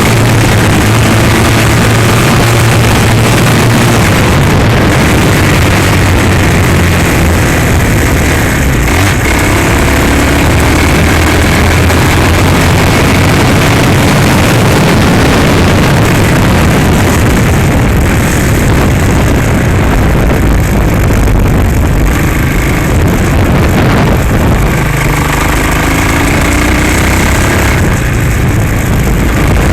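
Hawk 250cc single-cylinder dirt bike engine running continuously, its pitch rising and falling as the throttle changes.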